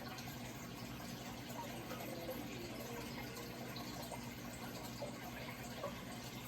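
Steady running water, a continuous even wash with a faint steady hum underneath.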